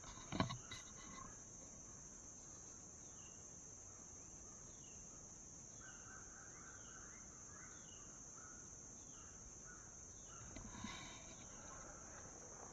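Faint outdoor ambience of insects, a steady high-pitched drone, with a series of short, falling chirps repeating about every second. Two brief knocks, from handling or footsteps, come about half a second in and again near the end, the first being the loudest sound.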